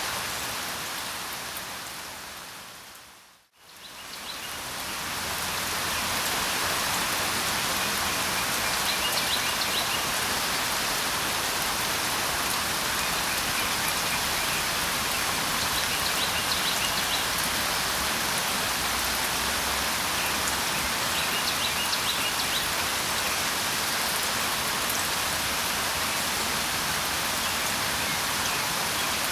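Steady rain hiss that fades out to silence about three seconds in and swells back up over the next couple of seconds. A few faint bird chirps come in small clusters three times later on.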